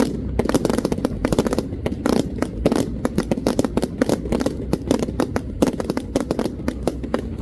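Fireworks crackling: a rapid, irregular run of sharp pops, many a second.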